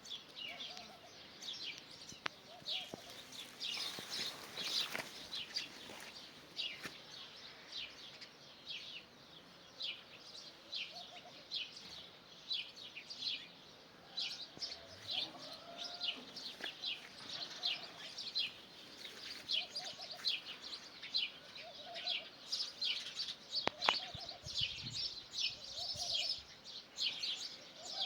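Birds chirping: a continuous stream of short, high chirps, with a lower short call repeating every second or two. A single sharp click comes about three-quarters of the way through.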